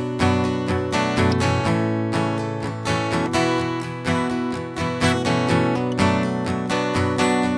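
Acoustic guitar strummed in a steady rhythm of ringing chords, the instrumental intro to a country song before the singing starts.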